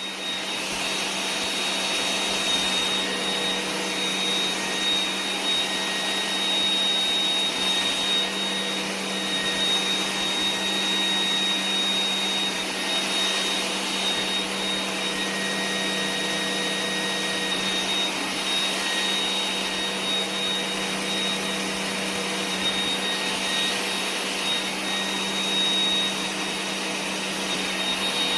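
A robot vacuum cleaner running steadily: an even whir with a thin, steady high whine and a low hum underneath.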